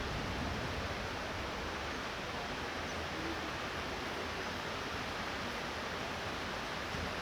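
Light rain falling steadily, an even hiss with a low rumble underneath and no distinct thunderclap.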